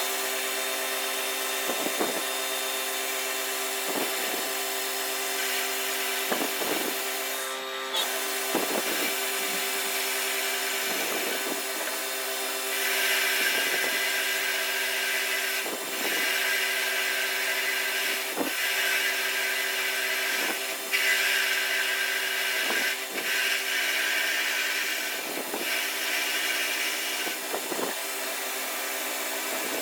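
A workshop power tool running steadily with a motor hum and a regular beat about every two seconds. From about a third of the way in to near the end, a louder scraping cutting noise rides over it.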